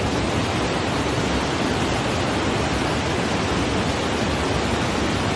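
Swollen flood torrent rushing: a steady, loud noise of fast-flowing water.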